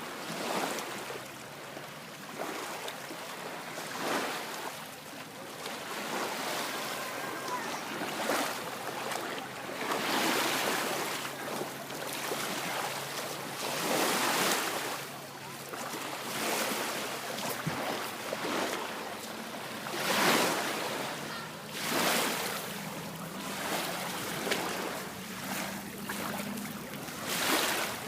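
Sea water rushing and splashing in repeated surges about every two seconds, over a faint steady low hum.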